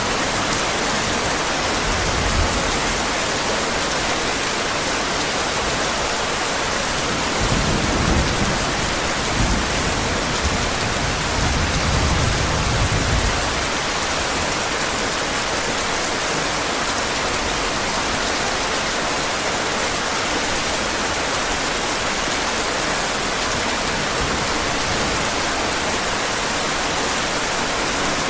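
Heavy rain falling steadily, with low rolls of thunder rumbling in the middle of the stretch.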